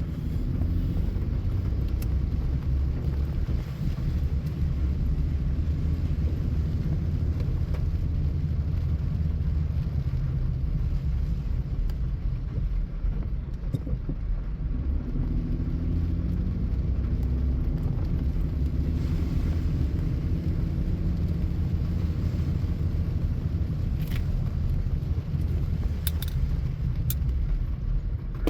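Car driving along: steady low engine and road rumble heard from inside the cabin, with the engine note shifting faintly about halfway through and a few light clicks near the end.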